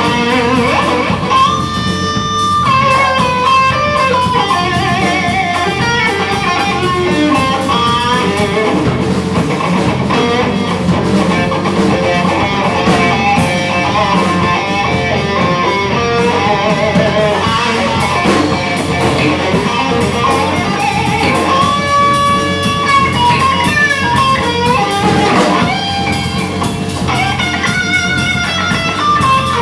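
Live rock band music led by electric guitar, playing held and bending melodic notes over bass.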